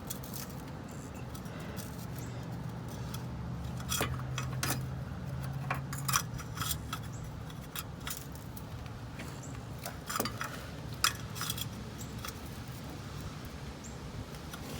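Scattered metallic clicks and clinks from tools and parts being handled during truck maintenance work, over a faint low hum for a few seconds early on.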